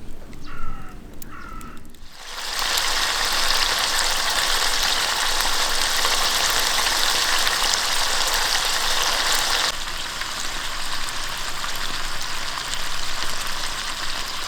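Food sizzling steadily in a hot pan. It starts about two seconds in and drops to a softer sizzle partway through.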